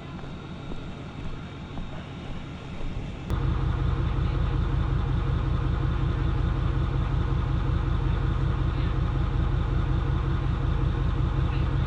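Vehicle engine running steadily. About three seconds in, after a click, it suddenly becomes much louder and heavier and stays that way.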